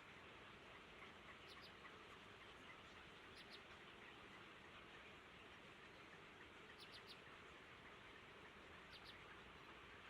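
Faint, high chirps of small birds, in quick clusters of two or three notes about four times, over a steady low hiss.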